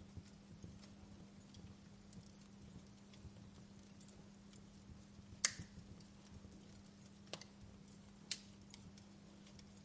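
Wood fire crackling: scattered small ticks with a few sharp pops, the loudest about halfway through and two more near the end, over a faint steady low hum.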